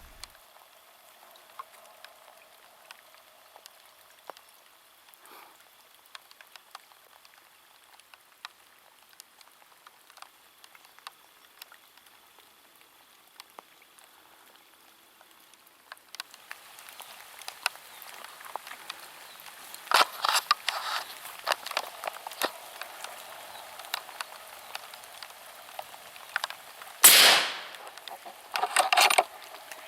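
Raindrops pattering and ticking irregularly on clothing and gear close to the microphone. About halfway through the patter grows denser, and near the end there are several loud bursts of rustling and handling noise.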